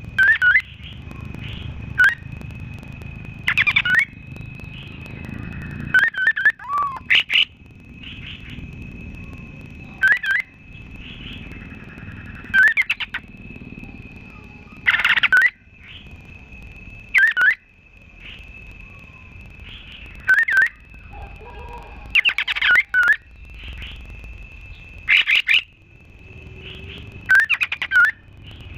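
Songbirds from a masteran mix of cililin, canary and kapas tembak. Sharp, loud chirping phrases repeat every two to three seconds over a thin, steady high-pitched note that runs throughout, with a low background rumble.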